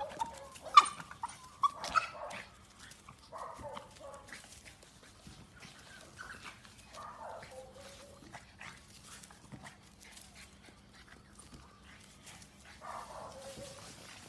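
A dog vocalizing: several sharp, loud calls in the first two seconds, then softer, drawn-out calls every few seconds.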